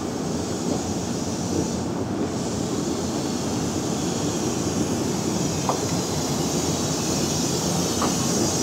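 Yoro Railway 620 series electric train rolling slowly past, with a steady rumble of wheels on the rails and a couple of faint short squeaks about midway and near the end.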